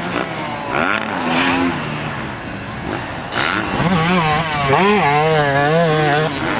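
A 2008 Yamaha YZ250F four-stroke motocross bike engine revving up and down over and over as the throttle is worked, loudest in the second half.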